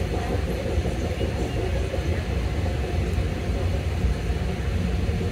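An AirTrain JFK car running along its elevated guideway, heard from inside the car: a steady low rumble of the running gear with a fainter hiss of motion above it.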